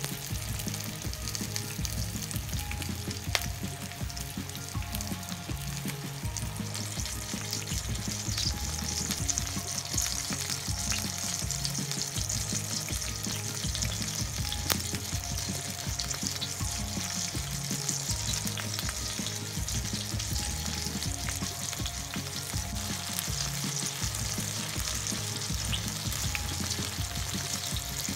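Meat-stuffed green peppers sizzling in oil in a frying pan: an even, steady crackle that grows brighter about eight seconds in. Background music with a steady beat runs underneath.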